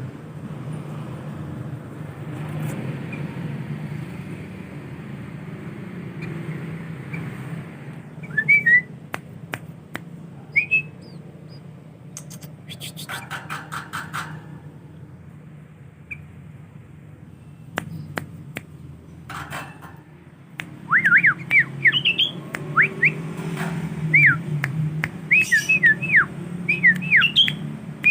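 Young male sooty-headed bulbul (kutilang) practising its song: short whistled notes that sweep up and down, a few scattered at first, then a quick run of many notes over the last seven seconds. A steady low hum runs underneath.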